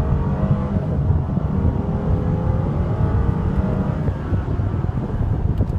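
Mercedes-Benz SL550's twin-turbo V8 under full-throttle acceleration, heard from inside the cabin: a heavy low rumble with the engine note climbing in pitch, dropping back once about four seconds in as the automatic shifts up, then climbing again.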